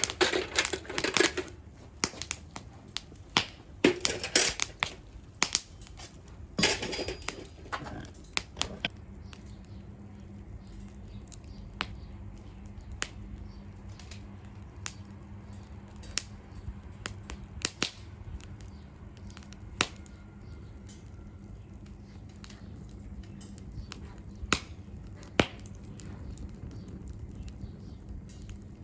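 Wood fire crackling. For the first several seconds it crackles densely, then it settles to single sharp pops a second or more apart.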